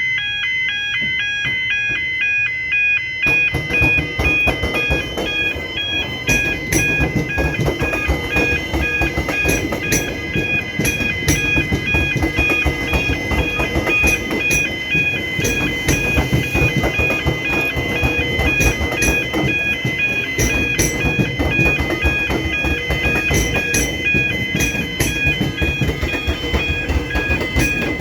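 Railway level-crossing warning bells ringing in a steady alternating pattern. From about three seconds in, a train rumbles through, its wheels clacking over the tram-rail crossing.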